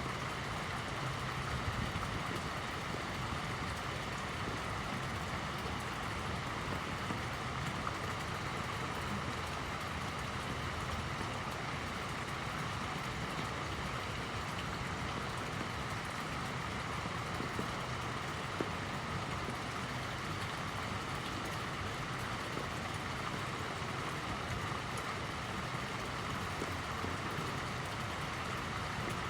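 Fountain water splashing steadily, a continuous even rush of falling water.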